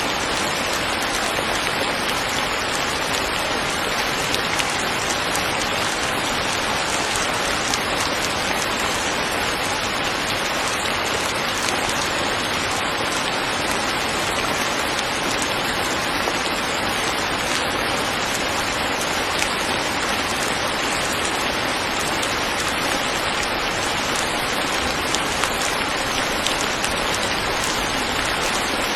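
Steady rain falling: an even, unbroken hiss of rain on surfaces.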